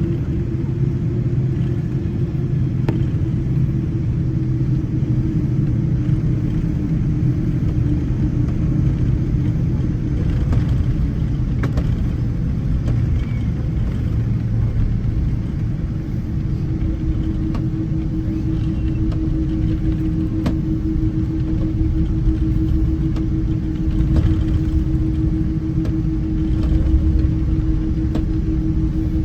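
Boeing 777 cabin noise: a steady low rumble with a held hum that fades out after the start and comes back about halfway through, and a few faint knocks.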